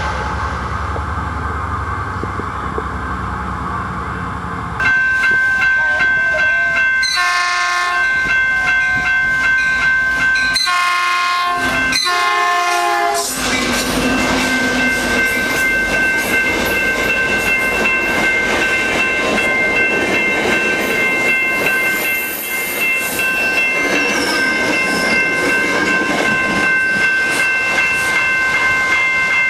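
Metrolink commuter train sounding its horn three times, the last blast the longest, then rolling past close by with rushing wheel and rail noise. From about five seconds in, a steady high ringing tone holds underneath.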